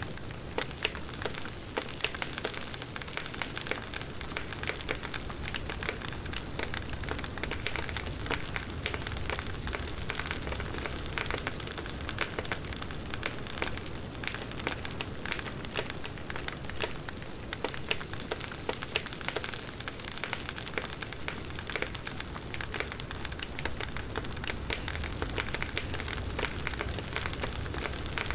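Campfire burning with a steady hiss and dense, irregular crackling and popping of the burning wood, over a low rumble of the flames.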